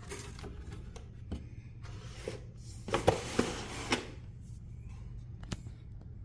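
Rustling and light clicks of packaging and small parts being handled, with a busier spell of rustling about three seconds in, over a steady low hum.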